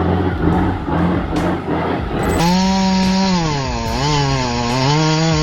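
A heavy engine running for the first two seconds or so, then, after a sudden cut, a chainsaw running under load, its pitch falling and rising several times.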